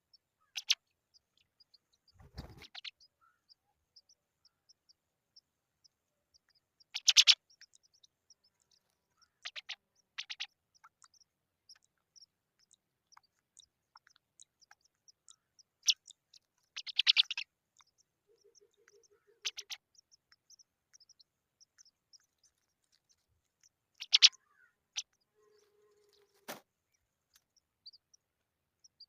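Young pipit giving short, high cheeping calls in brief clusters every few seconds, with faint tiny ticks in between. A soft low thump comes about two seconds in.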